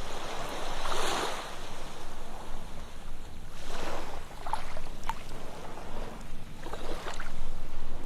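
Ocean waves breaking and washing up a sandy beach, a swell of surf about every three seconds, with a few small splashes or pops in the foam.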